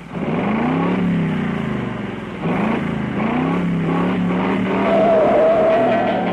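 Car engine being revved, its pitch climbing and dropping back with each of several throttle blips. A steadier, higher whine comes in near the end.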